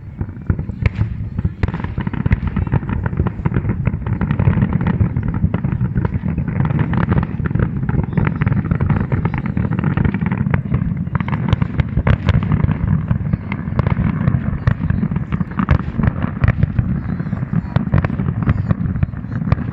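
Fireworks going off in quick succession: a dense, continuous crackle of sharp bangs over a deep rumble, with no pause.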